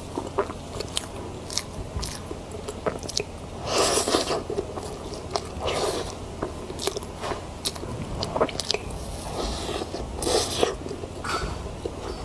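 Close-miked eating: a person biting and chewing food, with many small mouth clicks and louder bite-and-chew bursts about 4, 6 and 10 seconds in.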